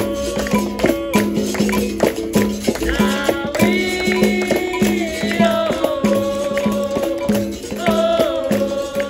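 Live capoeira roda music: a steady repeated low twang in an even rhythm, with a shaken rattle and a frame drum keeping time and voices singing long held lines that step in pitch. From about 3.5 to 5.5 seconds in, a higher, fuller chorus of voices joins.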